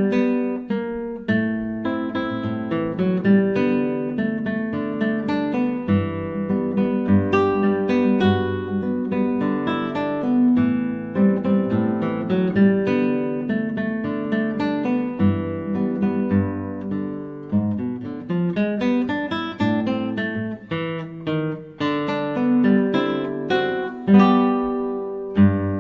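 Nylon-string classical guitar played fingerstyle: a plucked melody over bass notes. A chord struck near the end is left ringing.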